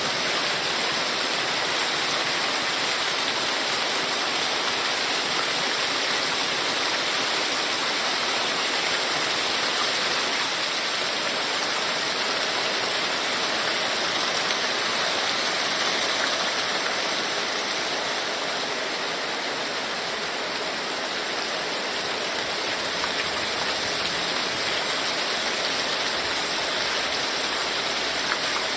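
Heavy rain falling steadily: a dense, even hiss, easing a little about two-thirds of the way through.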